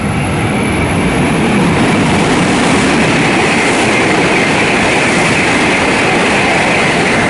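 E7/W7-series Shinkansen train passing through a station at speed without stopping: a loud, steady rushing noise with a high whine, building at the start, holding for several seconds and beginning to fade at the very end.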